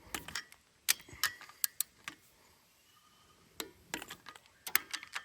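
About a dozen scattered sharp clicks and light metallic clinks, irregularly spaced, from hand tools and metal parts being handled.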